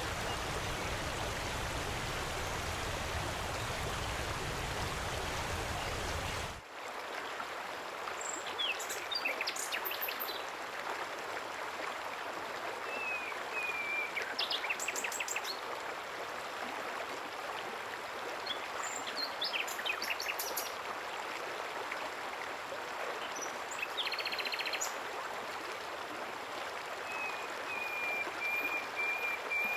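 Flowing water runs steadily throughout. A deeper, fuller rush cuts off about six seconds in, leaving a lighter flow, over which small birds call every few seconds with short sharp chirp trills and thin whistled notes.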